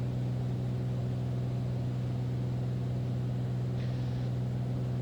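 Steady drone of a Beechcraft Bonanza's piston engine and propeller in flight, heard inside the cockpit as an even, unchanging low hum.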